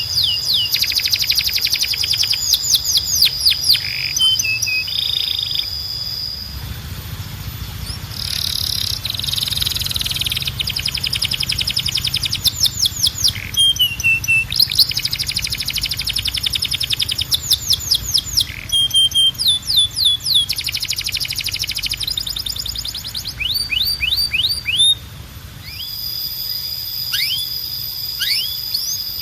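Domestic canary singing: fast trills of repeated sweeping notes, broken by long, steady, high whistled notes near the start and again near the end.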